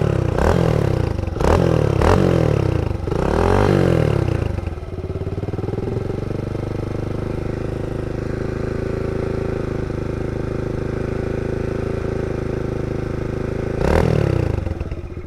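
Mini bike engine revved in four quick blips, then settling to a steady idle, with one more blip near the end. The bike is smoking, which the riders take for the engine burning oil.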